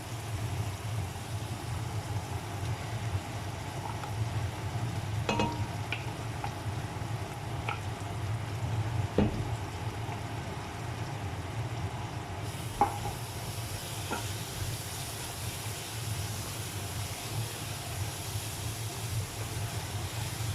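Masala paste sizzling in hot oil in a cooking pan as it is stirred in, with a spoon knocking against the pan three times. A steady low hum runs underneath, and the sizzle turns brighter about two-thirds of the way through.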